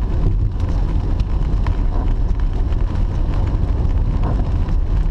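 A car driving, heard from inside the cabin: a steady low rumble of road and engine noise, with scattered faint ticks.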